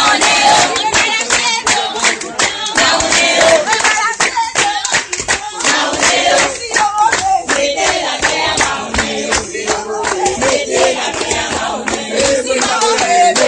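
A group of people singing together, with hands clapping along throughout.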